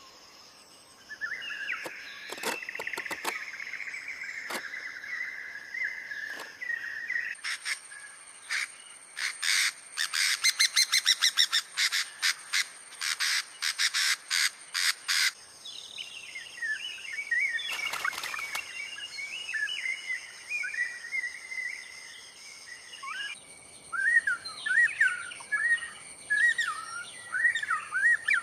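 Tropical forest ambience: birds calling and chirping over a steady, high insect drone. A fast run of sharp clicks, the loudest part, comes in the middle.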